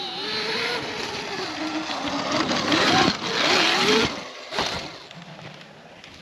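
OSET TXP 24 electric trials bike's motor whining, its pitch rising and falling with the throttle, over tyre and dirt noise. It is loudest about three to four seconds in, then fades.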